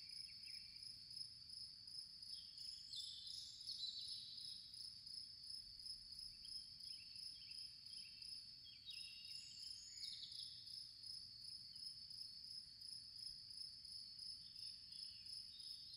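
Faint night ambience of crickets: a steady high-pitched trill, with short chirps from other insects coming and going over it.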